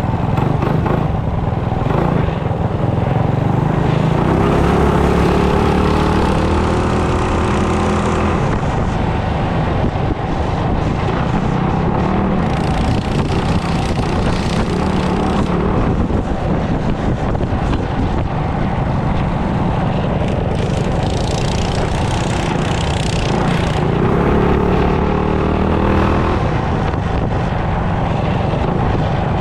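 Small single-cylinder mini bike engine running while riding, under a heavy rush of wind noise; the engine note climbs in pitch twice as it is throttled up, once early on for a few seconds and again near the end.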